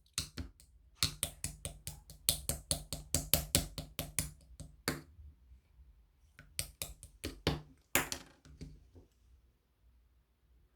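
A run of sharp clicks, about four to five a second, which pauses about five seconds in, resumes for a couple of seconds and stops near the nine-second mark.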